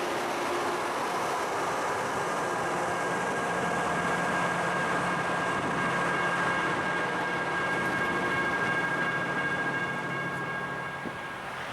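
LORAM rail grinder train rolling past, its engines and wheels making a steady rumbling noise. About four seconds in, a steady high-pitched whine joins in, and it fades out near the end.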